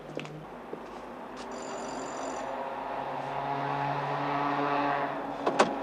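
A car engine running steadily, growing louder over a few seconds and then cutting off abruptly, with two sharp clicks just after.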